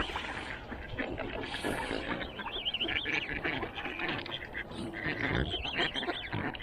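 Ducks quacking, many short calls overlapping one another.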